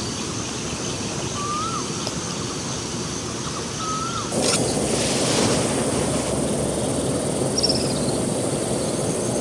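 Steady rush of running water with two short bird chirps in the first few seconds. About four seconds in, the sound jumps to a louder, brighter hiss that holds on, with one more short high chirp near the end.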